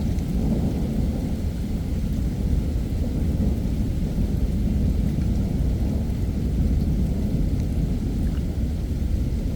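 Heavy thunderstorm rain with low, continuous rumbling thunder; no sharp thunderclap.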